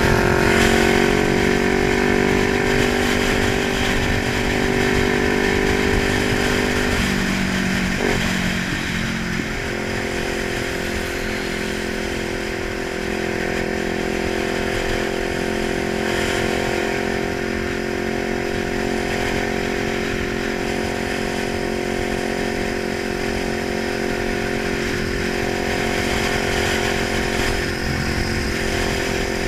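Kawasaki 900 motorcycle engine running steadily. Its note breaks and shifts about seven to nine seconds in, then holds steady again.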